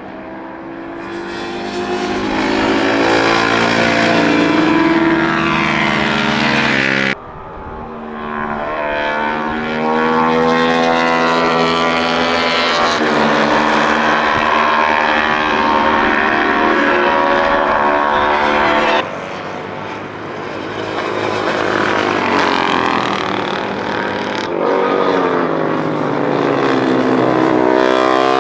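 Classic racing motorcycle engines running hard at high revs on a circuit, their note rising and falling as the bikes pass. The sound changes abruptly twice, about seven seconds in and again about two-thirds of the way through, to another bike or group of bikes.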